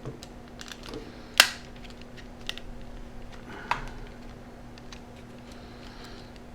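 Small plastic clicks and taps of a Sharp Zaurus SL-6000D handheld's case and LCD carrier being handled and pressed together, with one sharp loud click about a second and a half in and another near four seconds.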